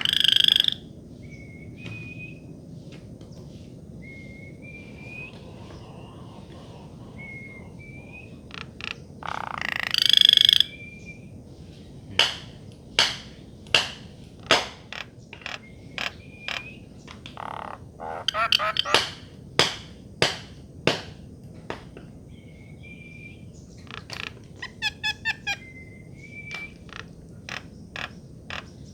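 A bird calling: short rising whistled notes mixed with sharp clicking calls about a second apart, sometimes in quick runs, and two louder harsh, raspy calls, one at the start and one about ten seconds in.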